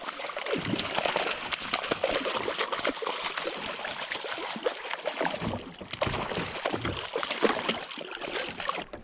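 Water splashing and sloshing with many small crackles as a hooked lake trout thrashes at the surface beside a kayak while being landed.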